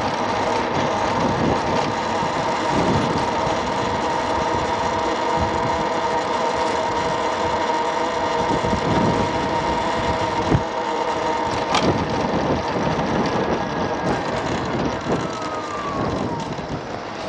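Electric motor scooter riding along: a steady motor whine over wind and road noise, the whine gliding lower and fading near the end as the scooter slows.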